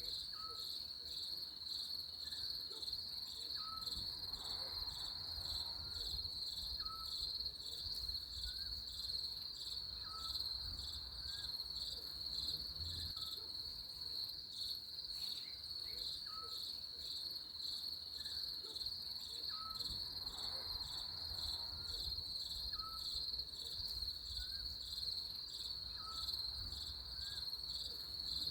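Crickets chirping in a steady, fast-pulsing high trill, with short faint upturned calls from another animal repeating about once a second underneath.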